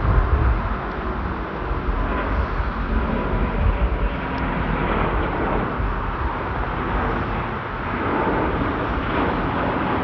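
Jet airliner engine noise from a departing aircraft: a steady, loud rumble with a deep low end and a faint whining tone.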